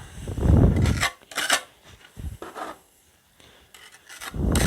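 Gritty scraping of a brick being pressed and worked into a mortar joint, coming in several short bursts with a pause in the middle. The brick is being pressed down so the joint fills completely with mortar.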